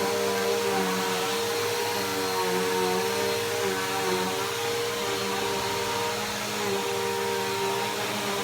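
Bissell PowerForce Helix Turbo upright vacuum cleaner running steadily, its motor whine wavering slightly in pitch.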